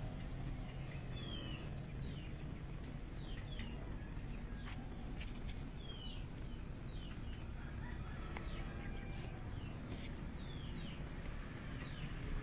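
Birds chirping: short, falling, high chirps repeated about once or twice a second over a steady low background rumble.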